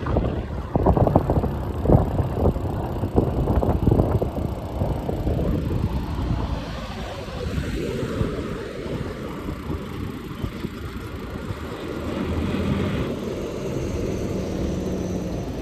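Wind buffeting the microphone of a moving bicycle, over road noise. The buffeting eases after about five seconds into a steadier rumble, and a low steady hum comes in near the end.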